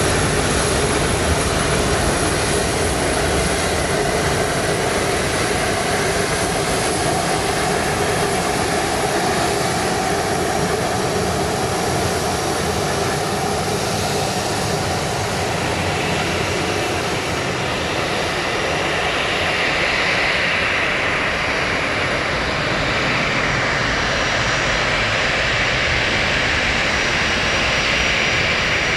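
Boeing 777-300 jet engines and rushing air heard as a steady, loud noise, with a thin high whine that fades a little past halfway as a higher hiss grows.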